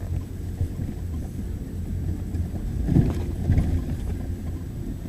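Steady low rumble of a moving car heard from inside the cabin, with a few short knocks about three seconds in.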